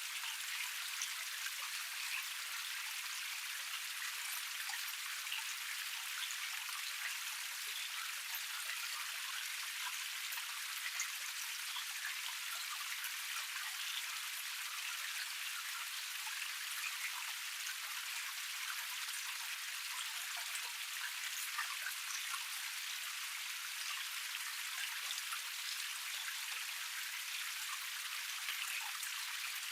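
Small forest cascade with water splashing and flowing over rock tiers: a steady hiss of many tiny splashes and drips, with no low rumble.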